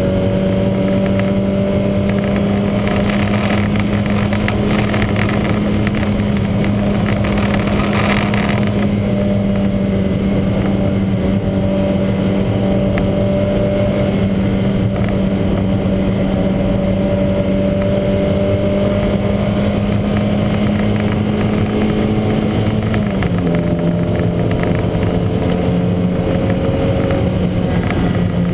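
Lancia Montecarlo's twin-cam four-cylinder engine running at steady high revs in a race, with a brief rushing noise about eight seconds in. The engine note drops a step about 23 seconds in.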